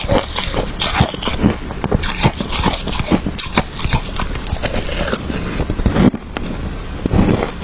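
Close-up crunching of shaved ice being bitten and chewed: a quick, irregular run of sharp crunches, several a second, with a brief lull about six seconds in.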